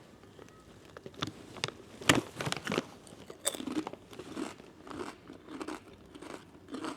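A person biting and crunching nori seaweed-flavoured Lay's potato chips: several sharp crunches over the first three seconds or so, then softer chewing.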